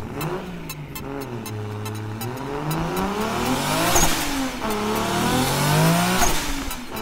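Car engine revving, its pitch rising and falling several times and growing louder toward the middle before easing off near the end.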